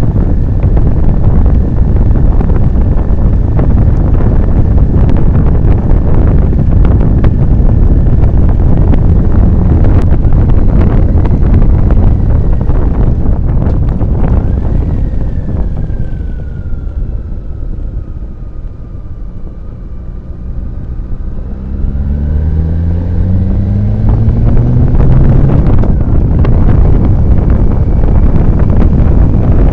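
Motorcycle riding at speed, with heavy wind noise buffeting the microphone. In the middle the wind eases off as the bike slows. The engine's pitch then rises as it accelerates away, and the wind builds again.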